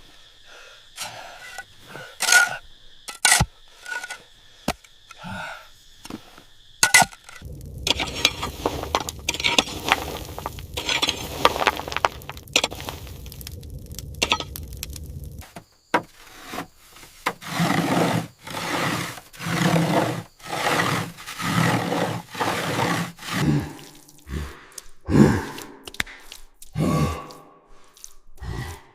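Construction work sounds: sharp knocks and clinks at first, then a stretch of scraping over a steady low hum, then repeated scraping strokes about one a second, as of tools digging into earth and stone.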